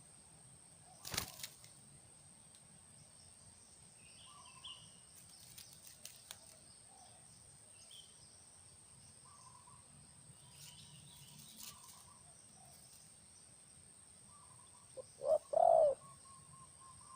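Spotted dove cooing, the loudest call coming near the end, with faint chirps of small birds and a single sharp click about a second in.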